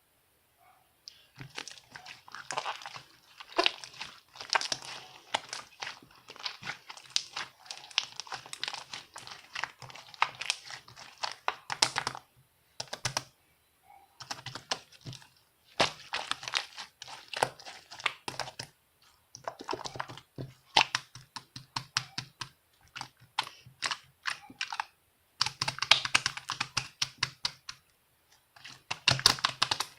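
Dense, rapid clicking and crackling in stretches of a few seconds, broken by short pauses.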